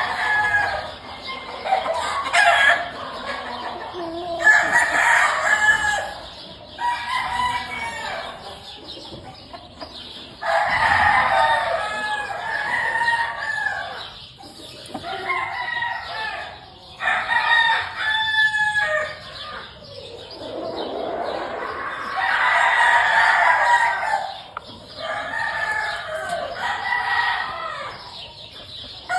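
Several gamefowl roosters crowing over and over, one crow following another every few seconds and sometimes overlapping, with some clucking between.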